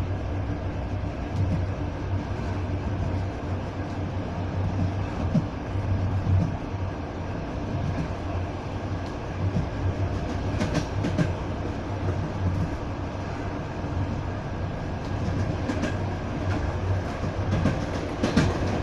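Passenger train running, heard from inside the carriage: a steady low rumble of wheels on the rails, with a few short runs of clicking from the rail joints in the second half.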